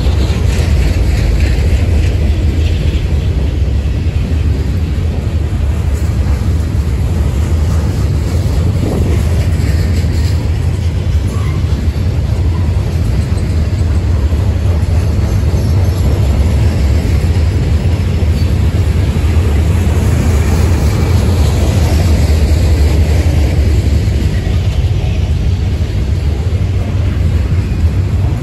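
Norfolk Southern freight train of open-top gondola cars rolling past at steady speed, a continuous heavy rumble of steel wheels on rail.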